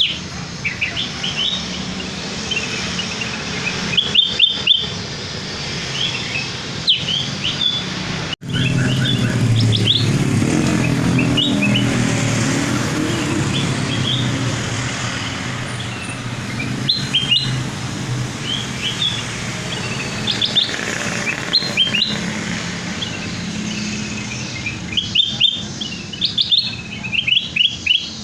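Kutilang emas bulbul song used as a lure call: bursts of short, quick, high chirps and warbled phrases, repeated throughout. A steady low rumble runs underneath and gets louder about a third of the way in.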